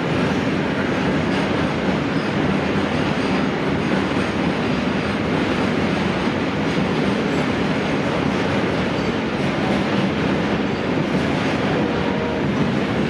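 Train running steadily along the track, a continuous loud rumble and rattle of wheels and wagons on the rails.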